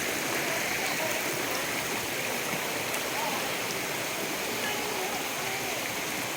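Steady rushing of water pouring over a waterfall and down the stream below it.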